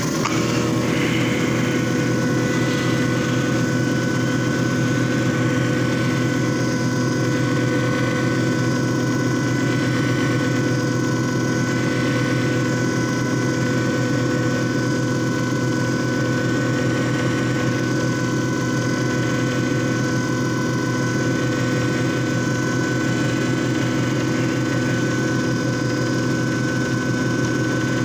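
JFJ Easy Pro disc repair machine running steadily, its motor giving an even hum with a constant whine over it.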